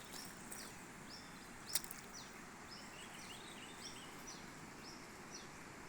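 A bird calling over and over, a short high falling note about twice a second, over a steady outdoor hiss. A single sharp click a little under two seconds in.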